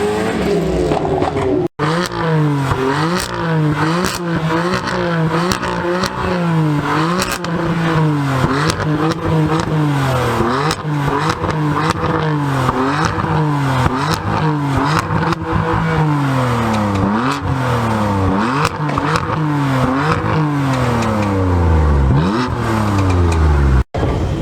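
A car engine revved hard again and again, its pitch climbing and falling about once a second, with crackling from the exhaust.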